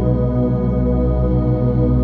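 Instrumental ambient music played back through Meze 105 AER headphones and picked up by microphones at the earcups: sustained synth-pad tones over a low bass note pulsing about five times a second.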